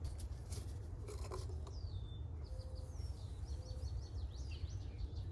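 A bird singing a run of quick chirps and short whistles from about two seconds in, over a steady low background rumble. A few faint clicks come in the first second or so.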